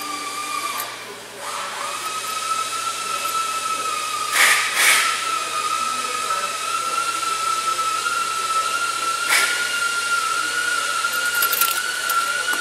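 A steady motor whine whose pitch creeps slowly upward, broken by short noisy bursts twice about four and a half seconds in and once about nine seconds in.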